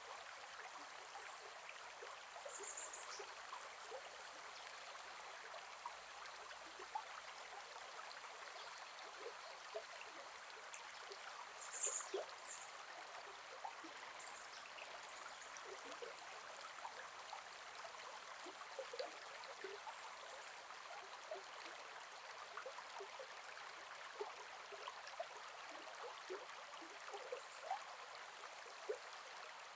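Gentle forest river flowing: a steady rushing hiss with small plinking, gurgling drops throughout. A brief high chirp comes a few seconds in and a louder one about halfway through.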